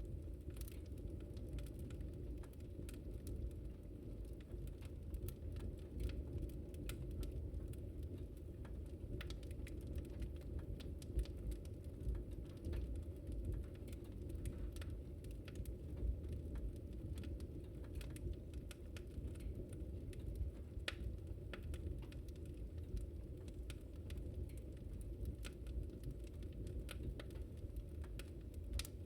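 Wood fire crackling: frequent small irregular pops and snaps over a steady low rumble of burning flames, with a few louder pops now and then.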